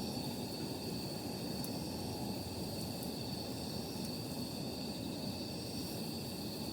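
Wood campfire burning, with a few faint, sharp crackles over a steady low rumble and a continuous high-pitched whine.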